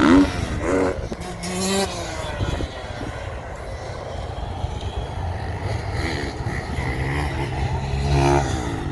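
Motocross dirt bike engines revving, their pitch rising and falling as the bikes ride. The engines are loudest at the start and again near the end.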